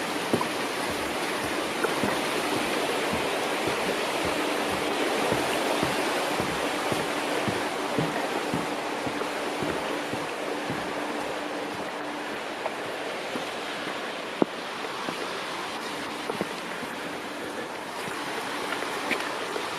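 Steady rush of running water from a stream, with small irregular knocks and gurgles throughout and a faint steady hum for several seconds in the first half.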